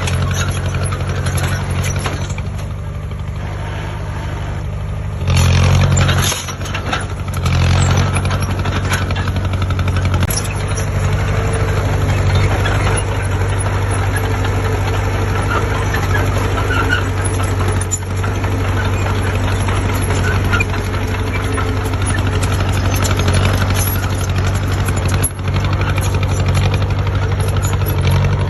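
Heavy diesel engine of earth-moving machinery running steadily, rising briefly about five seconds in.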